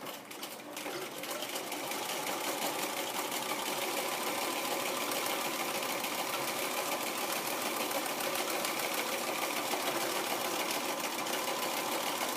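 Domestic sewing machine stitching, picking up speed over the first couple of seconds and then running at a steady pace.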